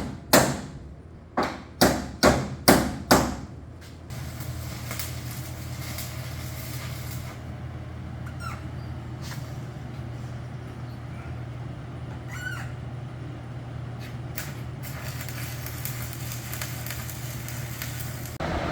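Ball-peen hammer tapping a sheet-steel floor panel tight, a quick run of about six ringing strikes over the first few seconds. After that a shop fan runs with a steady hum.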